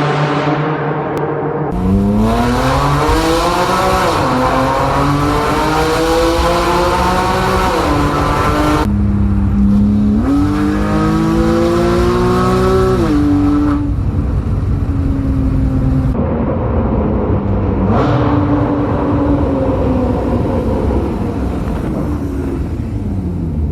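Porsche 911 991.1 Carrera 3.4 flat-six with a Sharkwerks X-pipe exhaust and side-muffler bypass, accelerating hard through the gears. Its note rises in three long pulls, each ending in a sharp drop at a gear change about 4, 9 and 14 seconds in, then it runs at a steadier pitch with a few shorter rises and falls.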